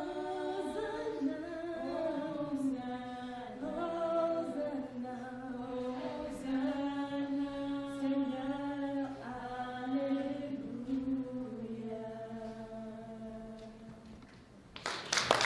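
A group of voices singing a slow hymn together in long, held notes, fading out near the end. A short, loud burst of noise follows at the very end.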